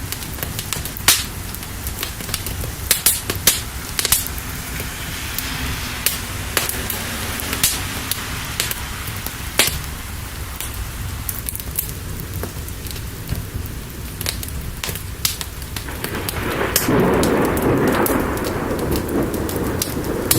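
Steady rain with a low rumble of thunder, and sharp crackling pops from a wood fire. Near the end a louder rolling rumble swells up and holds.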